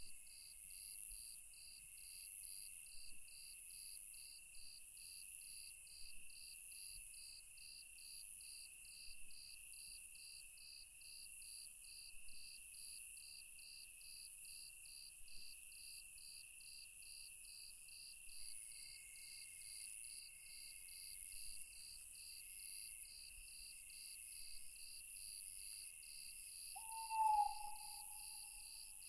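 Night insects, crickets among them, chirping steadily in an even rhythm of about two pulses a second over a continuous higher trill. Near the end a single short owl hoot stands out as the loudest sound.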